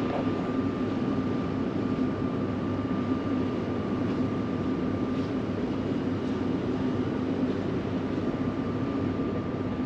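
Steady mechanical drone of ship machinery: an even rush with a low hum and a thin, high steady whine, unchanging throughout.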